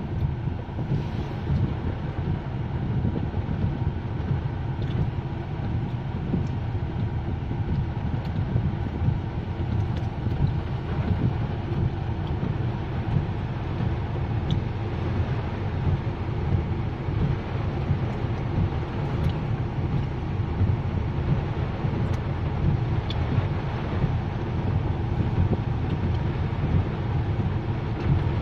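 Steady engine and road noise of a car on the move, heard from inside the cabin.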